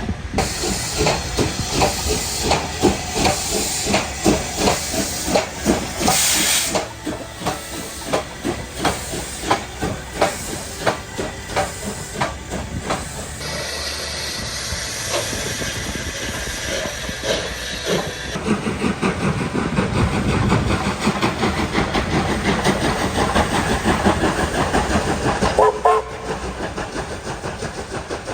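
Steam locomotive working along the line, its exhaust chuffing in a regular beat of about two a second, with a loud burst of steam hiss about six seconds in. The sound changes abruptly twice, as at joins between separate recordings.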